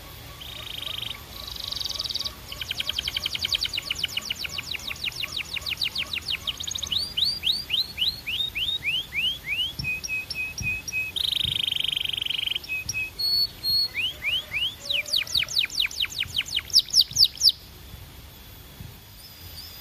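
A Belgian canary singing a long song made of rapid trills of repeated high notes, runs of downward-slurred whistles and a short buzzy phrase. The song stops a couple of seconds before the end.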